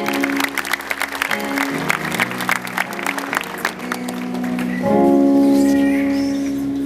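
Sustained keyboard chords, with hand clapping over roughly the first four seconds. The chord changes and swells louder about five seconds in.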